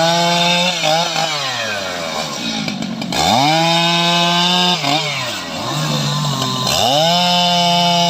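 Large two-stroke STIHL MS 881 chainsaw revved to full throttle and held there, then dropping back and climbing again: it falls off about two seconds in, comes back up around three seconds, sags near five seconds and climbs again near the end.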